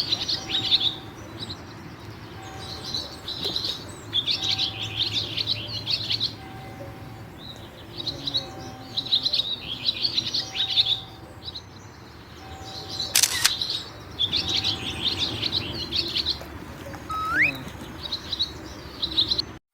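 Birds singing: short, high song phrases repeated every second or two, with a single sharp click about two-thirds of the way through.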